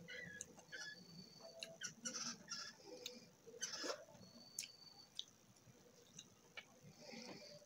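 Faint chewing of rice and curry eaten by hand, with fingers gathering and scraping rice on a steel plate. It comes as scattered small clicks and wet mouth noises, busiest in the middle.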